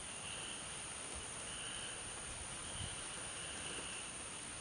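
Night insect chorus: a steady high-pitched drone, with a lower chirping band swelling in and out about once a second.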